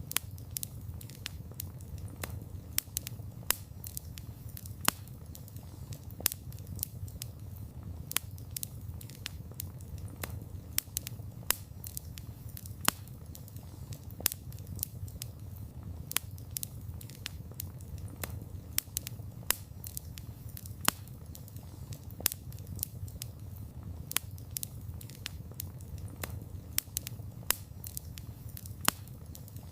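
Wood campfire burning: irregular sharp pops and crackles, a few each second, over a steady low rumble.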